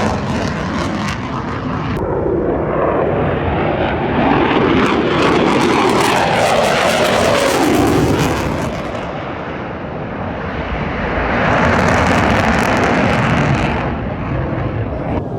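Lockheed Martin F-22 Raptor's twin Pratt & Whitney F119 afterburning turbofans: loud jet noise as the fighter flies by, with a falling pitch sweep as it passes, easing off about nine seconds in and building again a couple of seconds later.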